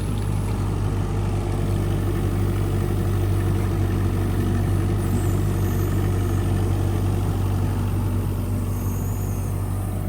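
Excavator's diesel engine running steadily under work, with a constant low hum.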